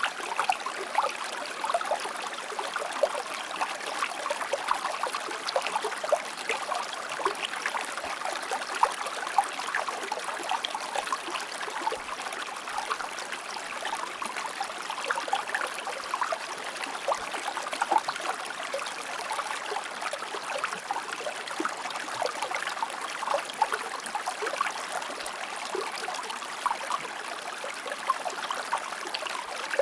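River water running over stones, a steady babbling and trickling made up of many small splashes, with no lulls.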